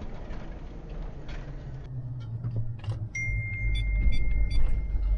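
Interior of a heavily laden Land Rover Discovery driving slowly: steady low engine rumble and road noise, growing louder in the second half. About three seconds in, a thin steady high tone joins it, with faint regular ticks.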